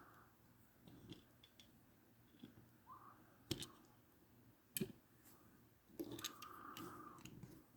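Faint handling noises of small die-cast toy cars: a few light ticks, two sharper clicks about three and a half and five seconds in, and a soft rustle near the end.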